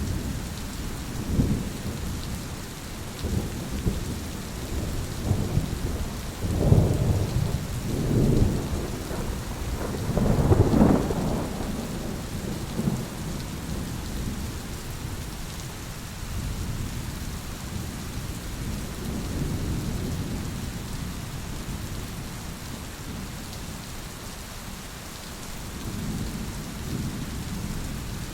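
Thunderstorm: steady rain falling, with rolling thunder. A cluster of loud cracks and rolls comes about a quarter to a third of the way in, and softer distant rumbles follow later.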